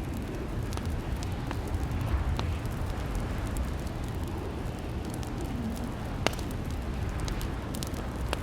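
Fireplace fire crackling: a steady low rumble of burning with scattered pops and snaps, one sharper pop about six seconds in.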